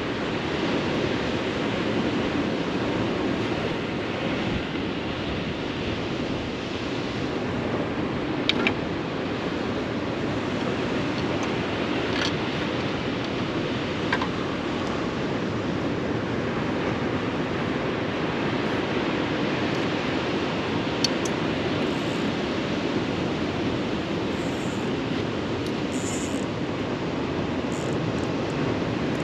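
Rough ocean surf and strong wind making a steady rushing noise, with a few faint clicks.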